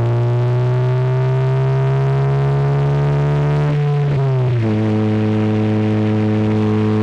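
Car engine accelerating, its pitch rising slowly, then dropping sharply about four seconds in as it shifts up a gear, and holding steady after.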